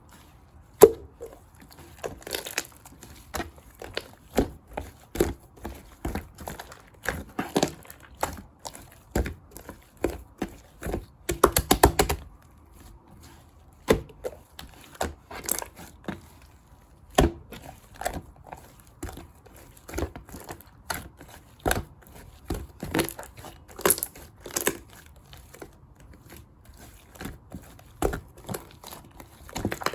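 Clear slime mixed with shaving foam being pressed, stretched and poked by hand, giving a stream of short sticky crackles, squishes and pops, with a quick run of rapid clicks a little before halfway.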